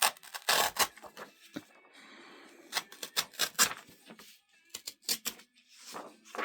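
Paper being handled on a table: a run of short crisp rustles and taps as sheets and book pages are moved and shuffled.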